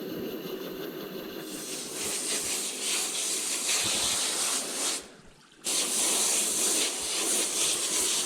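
Water hose spraying in a steady hiss, rinsing down feed dishes and food dust; the spray cuts off for about half a second about five seconds in, then comes back on.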